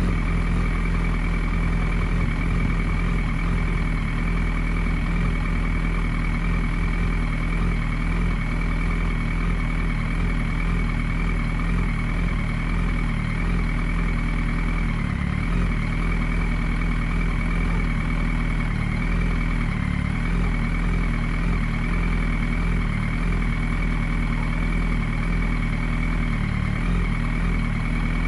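Yamaha R1's 998 cc inline-four engine idling steadily through an Akrapovič Y-pipe and Scorpion canister, warming up after a cold start.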